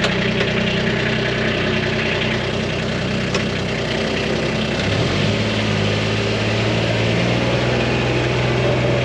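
A vehicle's engine running at a steady idle, then its speed stepping up about five seconds in as it pulls away.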